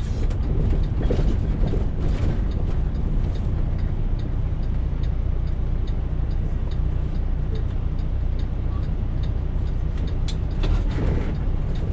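Semi truck's diesel engine running steadily while driving, heard from inside the cab. A light, regular ticking of about two ticks a second runs through the first half.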